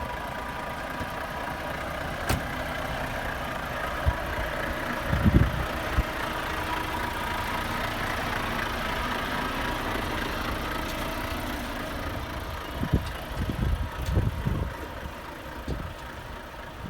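Truck engine idling steadily, with a few low thumps about five seconds in and again near the end.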